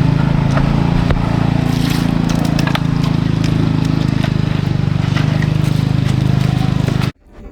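A small engine running steadily close by with a fast, even putter, then stopping abruptly near the end.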